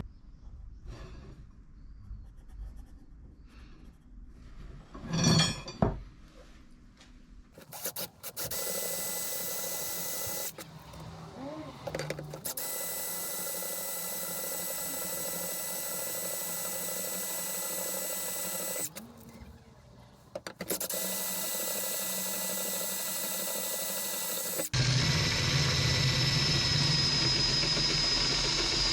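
Handheld electric power tool working steel rebar, running in three long runs with short pauses between them, after some handling knocks. Near the end a louder run starts with a different, higher whine.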